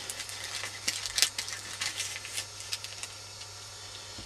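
A package being opened by hand: irregular light crackles and clicks of the packaging being handled.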